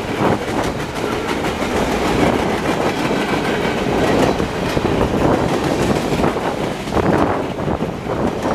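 Freight cars rolling past at speed, with a steady rumble of steel wheels on rail and repeated clickety-clack of wheels over rail joints.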